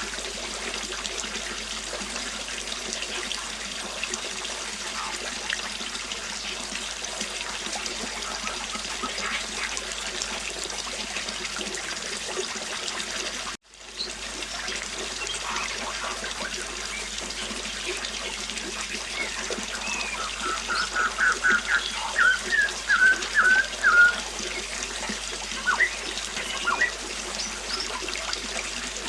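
Flowing river water running steadily, with birds chirping here and there. About two-thirds through a bird gives a quick series of repeated chirps, the loudest part. The sound cuts out for a split second about halfway.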